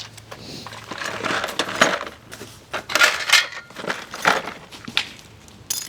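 Rummaging through a box of tools and small metal parts: irregular clinks, rattles and clatter, with a few louder knocks.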